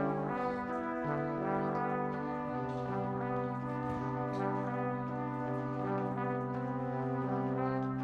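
Slow, calm brass ensemble music: trumpets and trombones holding long, overlapping chords that change every second or two.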